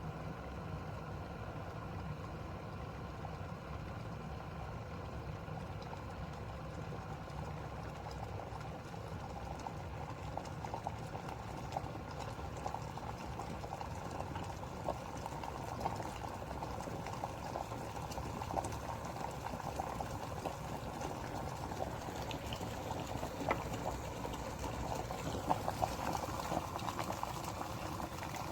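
Hamilton Beach 1500-watt glass electric kettle heating water. There is a steady rushing hum, and crackling and popping from forming bubbles that grows denser and louder over the second half as the water comes up to the boil.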